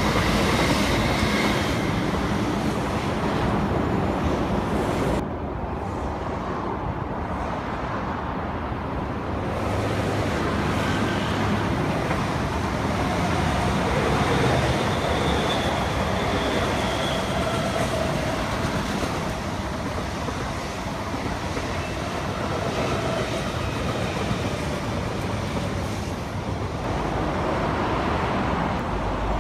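East Rail Line electric multiple-unit trains running past on the tracks, a steady rumble of the train on the rails. The sound changes abruptly about five seconds in and again near the end.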